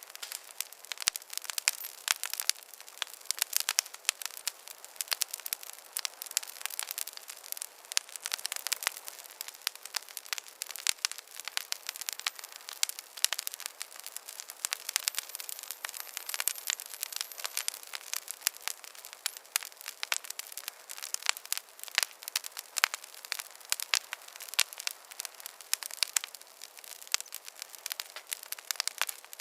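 Wood campfire crackling, with dense irregular pops and snaps from the burning logs.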